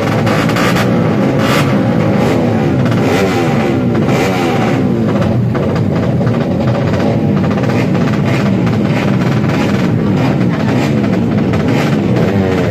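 Tuned single-cylinder four-stroke drag-race motorcycle engines revving hard, their pitch rising and falling over and over, mixed with background music with a drum beat.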